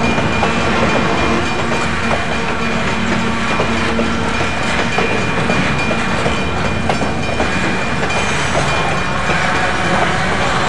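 Freight train's loaded flatcars rolling steadily past, a constant rumble with the clickety-clack of wheels over rail joints.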